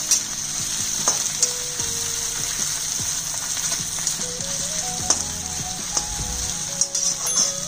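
Onions with crushed garlic, ginger and green chilli sizzling in hot oil and ghee in a steel kadhai, with a steady hiss, while a steel spatula scrapes and clicks against the pan as the mixture is stirred.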